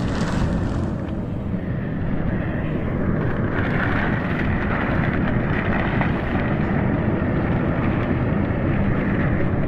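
Steady machinery noise with a low rumble, joined about a third of the way in by a steady hiss.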